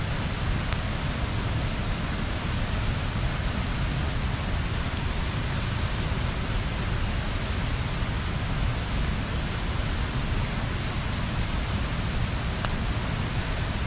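Wood bonfire burning with a steady rushing hiss and a low rumble, broken by a few faint crackles.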